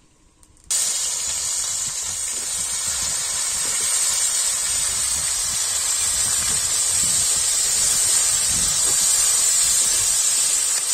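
Cut okra sizzling in hot oil in an iron karahi (wok). The sizzle starts suddenly less than a second in, as the pieces go into the pan, and then holds as a loud, steady hiss.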